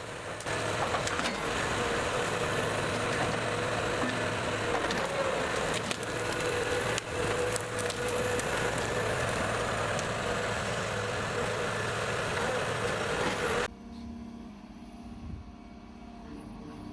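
Komatsu 845 forwarder's diesel engine running under load with hydraulic noise and a few knocks. About 14 seconds in it cuts off abruptly to a much quieter, low engine hum.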